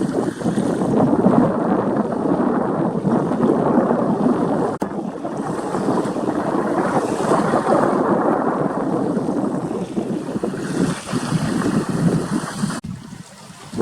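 Wind buffeting the microphone over waves washing on the shore, a loud steady rush with no bird calls standing out. It cuts out for an instant about five seconds in and drops away for the last second.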